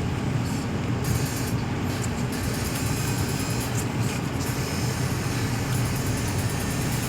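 A car running on the road: steady engine hum with tyre and road noise.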